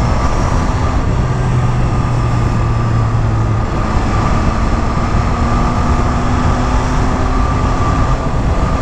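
MV Agusta Brutale 800's three-cylinder engine running steadily under way at road speed, with a steady rush of wind and road noise.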